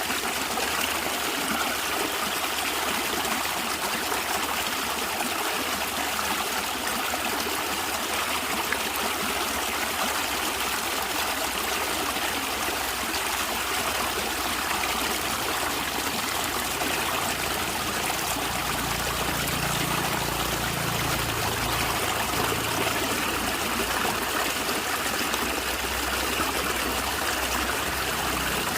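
A natural stream gurgling and trickling steadily, with a low rumble coming in for a few seconds past the middle.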